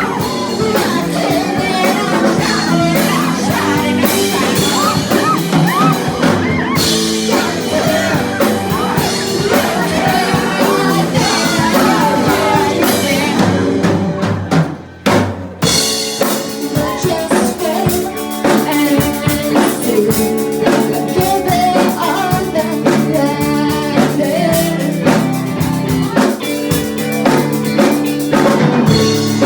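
A live band playing loud music with a drum kit and singing, with a brief break near the middle.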